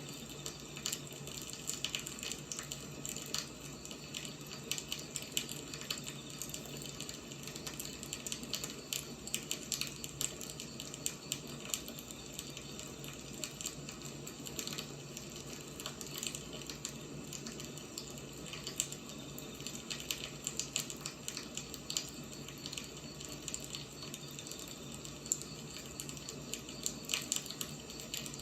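Wood fire burning, with irregular crackles and pops over a steady hiss.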